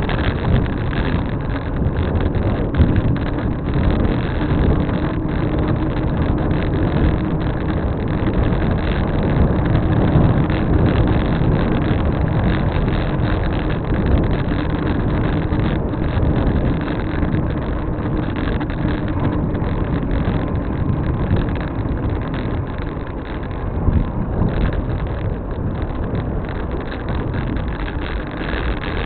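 Steady rumbling road and wind noise from riding along a road, with a faint steady hum through the middle.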